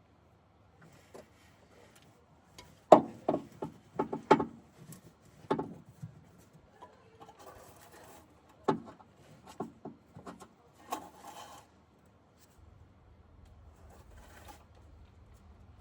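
Metal engine parts and tools being handled by hand while a new water pump gasket is fitted over guide bolts: a run of sharp knocks and clicks with two short spells of scraping.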